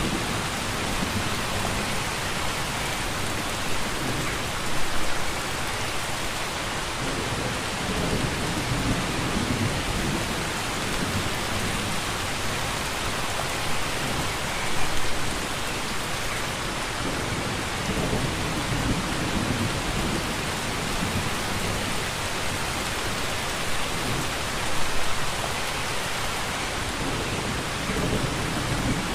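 Steady heavy rain hissing, with low thunder rumbles; the rumble swells sharply three times, about ten seconds apart.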